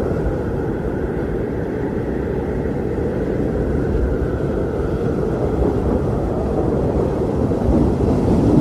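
Strong wind blowing steadily, a deep rushing rumble that swells a little near the end.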